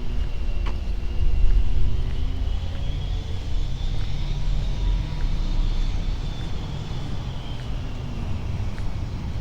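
Low rumble of motor traffic on a busy street, swelling about a second and a half in, then slowly fading.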